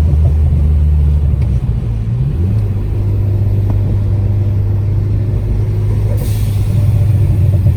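Ford Focus ST's turbocharged EcoBoost four-cylinder running through a Cobb exhaust with a catless downpipe while driving at low revs. The engine note steps up a little about two seconds in, and a short hiss comes near the end.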